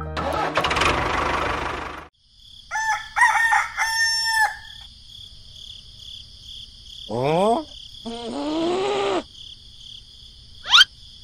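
A rooster crowing about three seconds in, one call in several rising parts. It sits among cartoon sound effects: a rushing noise for the first two seconds, a fast rising glide, a wavering pitched sound, and a short sharp rising whistle near the end.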